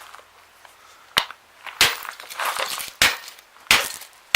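A series of sharp hammer blows, five hard knocks spaced about half a second to a second apart, some followed by a brief rattle or ring.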